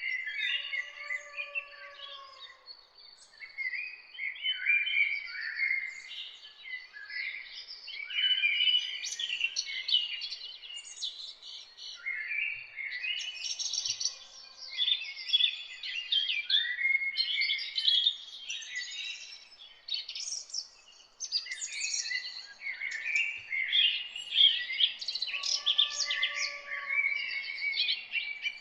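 A chorus of several songbirds singing and chirping at once, short quick notes and trills overlapping almost without a break.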